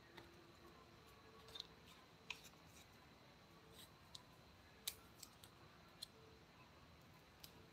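Faint, sharp clicks, about ten of them at irregular intervals, over near-silent room tone.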